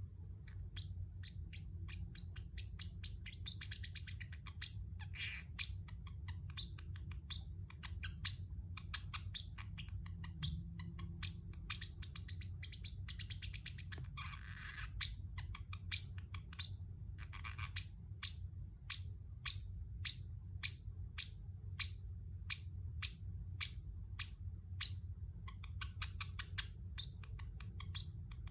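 Pacific parrotlet chirping: a long series of short, high chirps, with a few harsher, scratchier calls mixed in, then a regular run of about one to two chirps a second in the second half. A steady low hum sits underneath.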